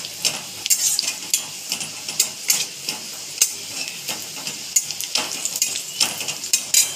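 Chopped garlic and ginger sizzling in hot oil in a metal wok, stirred with a spatula that scrapes and clicks irregularly against the pan.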